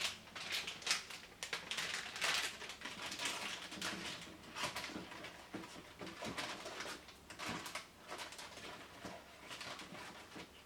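Irregular rustling and light clicking of things being handled, as of packaging and plastic containers being moved about, starting suddenly.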